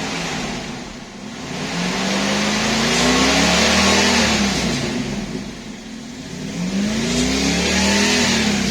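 Jeep Grand Cherokee ZJ's 5.9 Magnum V8 revving, its pitch climbing and falling back twice, about three seconds apart, with a loud rushing hiss at each peak.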